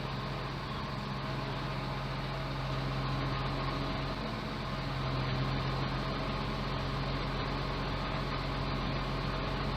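Scania truck's diesel engine running steadily, a low even hum that swells slightly a few seconds in.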